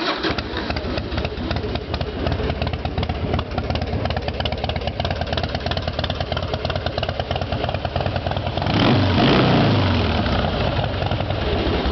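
2005 Harley-Davidson Heritage Softail's Twin Cam 88 V-twin running through aftermarket performance mufflers. It idles steadily, then is revved once about nine seconds in and drops back to idle.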